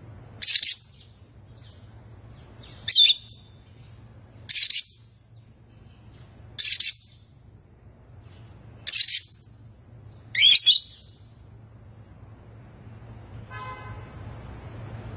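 A lovebird giving six short, shrill calls about two seconds apart, the last one a quick double, over a steady low hum.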